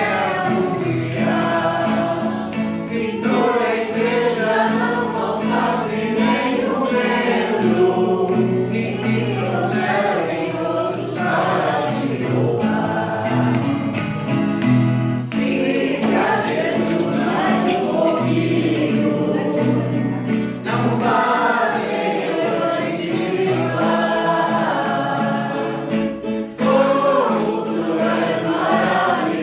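A group of voices singing a Christian worship song over steadily held low accompanying notes.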